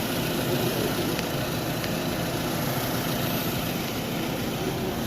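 Freshly overhauled Toyota Camry engine idling steadily, with no knocking or tapping from it.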